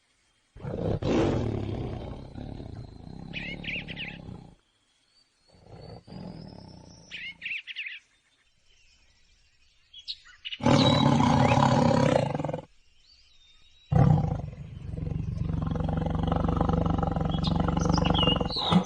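Tiger roaring and growling in several separate bursts that start and stop abruptly, the longest and loudest two in the second half. A few brief bird chirps sound between the first bursts.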